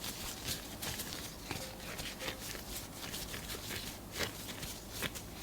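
Cookie dough being handled and shaped by hand, with a run of light, irregular taps and clicks.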